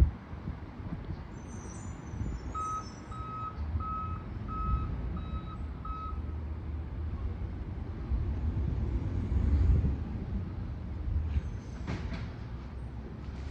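Garbage truck's reversing alarm beeping six times, about two beeps a second, over the low rumble of the truck's running engine. A short knock comes near the end.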